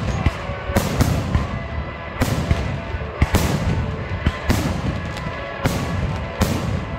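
Aerial fireworks bursting close overhead: sharp bangs at irregular intervals, about one a second, over a continuous rumble and crackle of shells.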